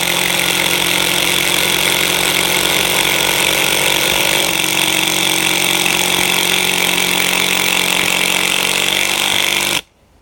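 Two cordless impact drivers, an 18 V Fein and a 14.4 V Makita, hammering together as they drive 5-inch wood screws with PZ3 bits: a loud, steady rattling clatter that cuts off suddenly near the end as the screws seat.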